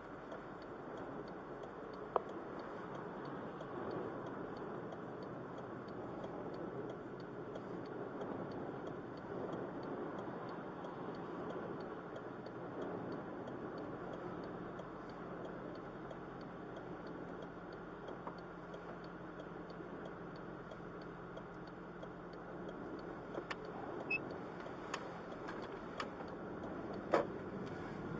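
Steady rumble of a vehicle in motion, with a few sharp clicks near the end.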